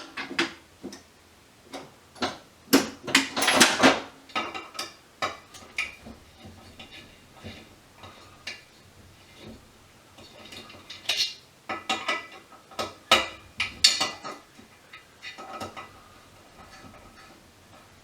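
Small metal parts and hand tools clinking and clattering while a variable frequency drive is taken apart for scrap, in irregular bursts, busiest about three seconds in and again from about eleven to fourteen seconds.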